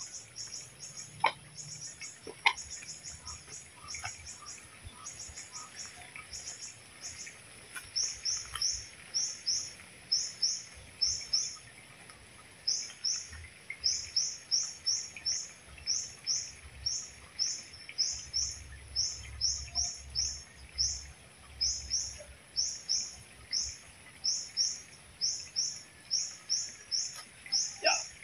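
A bird calling a short, high, rising chirp over and over, about two a second from about eight seconds in, after a stretch of quicker, clustered high ticks. Two sharp knocks sound in the first few seconds.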